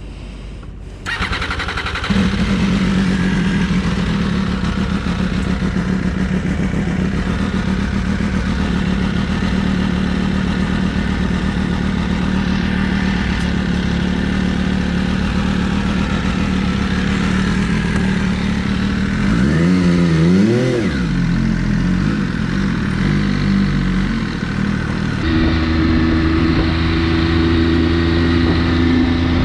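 MV Agusta F3 675's three-cylinder engine starting about a second in, then idling steadily. One quick throttle blip comes about two-thirds of the way through, and the engine settles into a higher steady note near the end.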